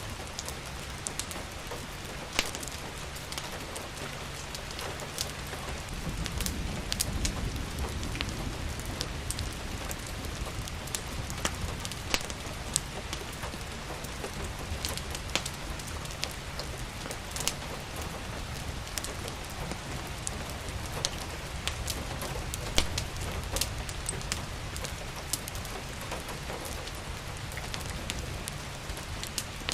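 Steady rain hiss layered with the irregular sharp crackles and pops of a burning wood fire, over a low rumble that swells a few seconds in.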